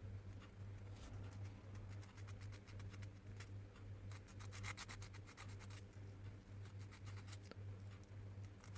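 Sandpaper rubbed back and forth in short strokes over a hair dryer switch's contact points, cleaning contacts worn and burnt by the heater's current draw. The strokes come quicker and closer together about halfway through.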